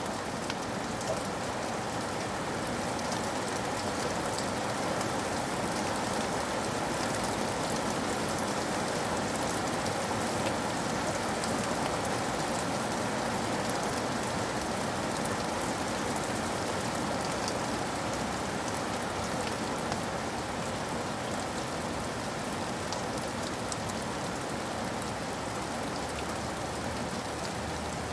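Steady rain falling, an even hiss with scattered small drop strikes on a surface.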